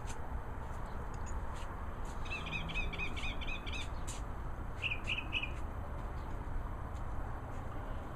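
Small songbird chirping: a quick run of about eight chirps about two seconds in, then three short chirps a little later, over a steady low background rumble.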